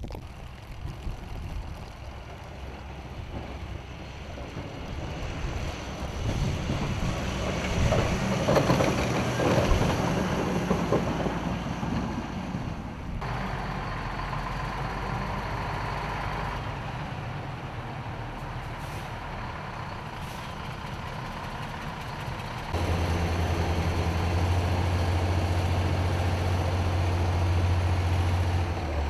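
A snowplow truck approaching and passing, its engine and the noise of snow being thrown growing to a peak about ten seconds in and then fading. After a sudden change, a heavy truck engine runs with a steady low drone.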